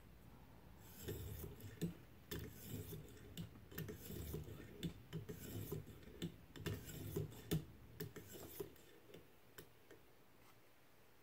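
A knife edge being stroked along a sharpening stone on a ViperSharp guided sharpener: a quick run of short scraping strokes, about three a second, with light clicks. They stop about two seconds before the end. These are the final strokes at a slightly changed angle to finish the edge of a recurve blade.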